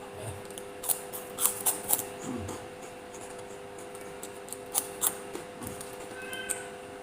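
Close-up eating sounds: crisp clicks and crunches from chewing and utensils, in a cluster about a second in and again about five seconds in, over a steady electrical hum. A cat starts meowing faintly near the end.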